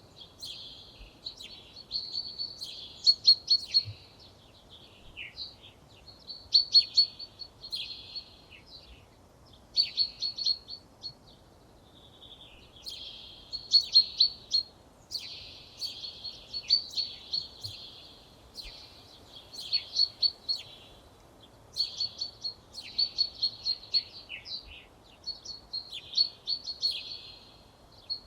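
A songbird singing in short phrases of rapid, chirping notes, a new phrase starting every two to three seconds, over a faint steady background hiss.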